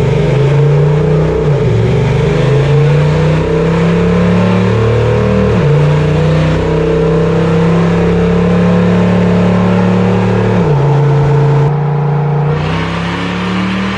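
Supercharged Toyota truck engine under full load on a chassis dyno, revving up through the gears. Its pitch climbs and drops back at each of about three gear changes, and it backs off near the end.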